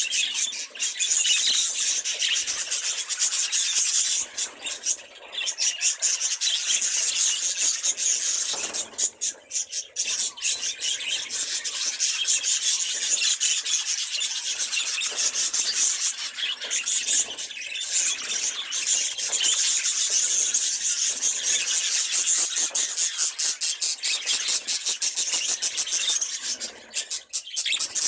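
Pet budgerigars warbling: a dense, rapid, scratchy stream of high chirps and squeaks, with a few brief pauses.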